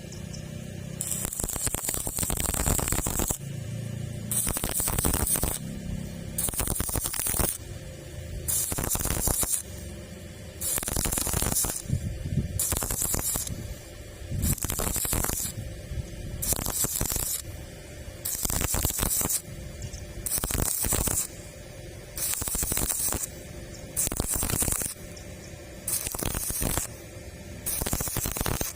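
Stick welding arc crackling and hissing in short bursts of about a second, repeating roughly every two seconds as the rod is struck and broken in a stitch pattern.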